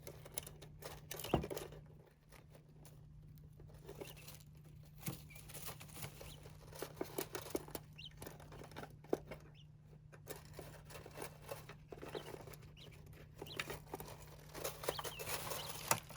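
Small birds scratching and pecking in a sand bath: irregular light pattering and rustling, with scattered sharp clicks.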